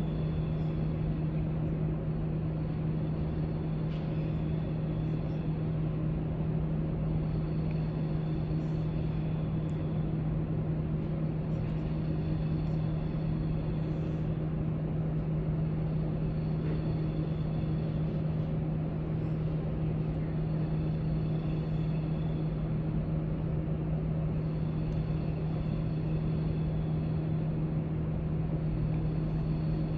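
Library background noise: a steady low hum under an even rush of room air, with faint scattered small clicks.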